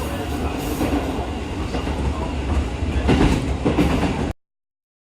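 JR rapid train running on the rails: a steady rumble with wheel clatter that grows louder about three seconds in. The sound cuts off abruptly near the end.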